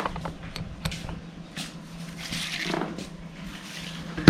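Handling noises from working on a day/night shade's string and pieces: light rustling, scraping and small clicks over a low steady hum, with one sharp click near the end.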